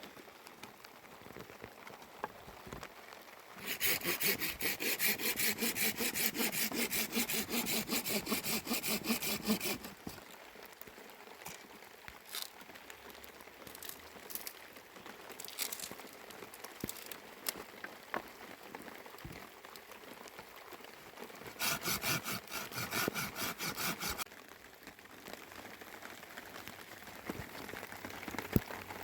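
Hand saw cutting with quick back-and-forth strokes, in two bouts: a long one starting about four seconds in and a shorter one past the middle, with a few light knocks and clicks between.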